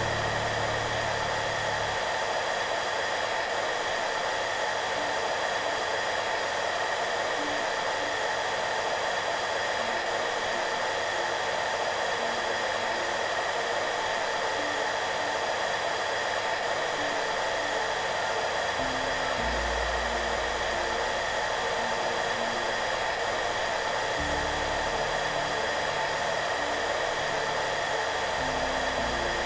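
Hair dryer running steadily, an even, unbroken rush of air noise with a faint steady whine in it. Soft background music sits underneath, with quiet low notes coming and going.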